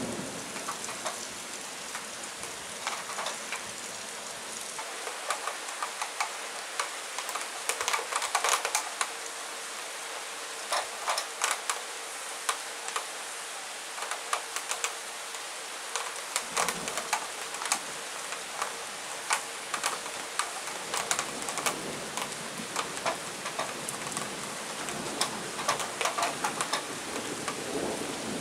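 Steady rain falling, with individual drops tapping sharply and irregularly close by, at times in quick clusters. A brief low rumble comes about halfway through.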